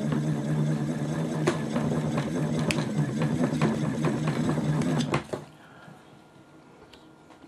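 Home-built ceiling fan alternator spun by hand, whirring steadily with a low hum and scattered clicks, then stopping about five seconds in.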